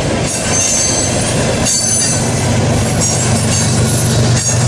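Freight train of empty crude-oil tank cars rolling past close by, with the steady rumble and clatter of wheels on rail and thin high-pitched squeals from the wheels that come and go.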